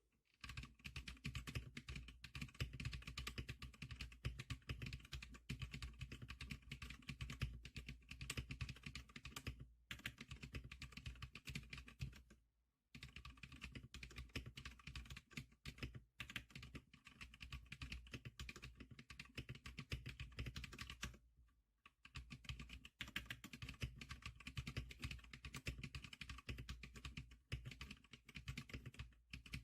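Fast, continuous typing on the SPK100 keyboard, a dense run of key clicks that stops briefly twice, a little before halfway and again about two-thirds of the way through.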